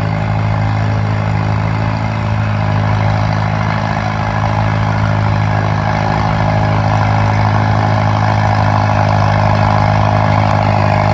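Tractor engine running at a steady speed, its pitch holding level and its sound growing slightly louder.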